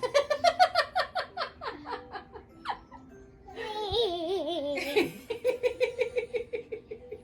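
A young child laughing in a quick run of short bursts that fall in pitch, then again in steady pulses, over music playing.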